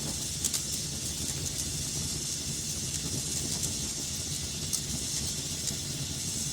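Fire burning in a fireplace: a steady hiss and low rumble with sharp crackles and pops at irregular intervals.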